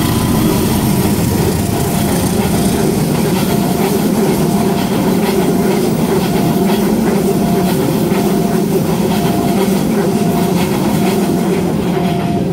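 Diesel-hauled passenger train running past at speed, its locomotive and then its carriages going by with wheels clacking over the rail joints. Under it, the level crossing's warning alarm keeps repeating its two alternating tones faintly.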